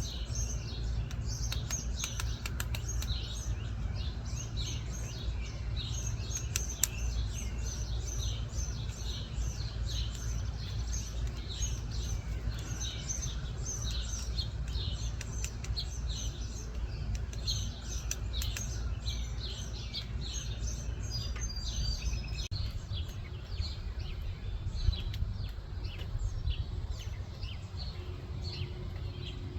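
Many small birds chirping continuously, with dense short high calls overlapping one another, over a steady low rumble.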